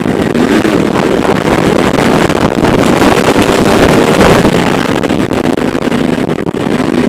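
Motorcycle engines running under way, their pitch slowly rising and falling, with heavy wind noise on the microphone.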